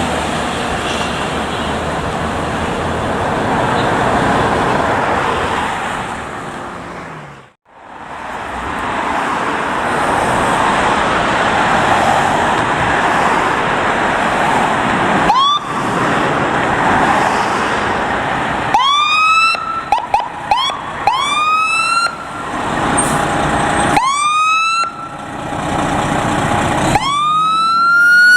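A fire truck's vehicle noise rushes by, then its siren starts with several short rising whoops. A long rising wail follows near the end.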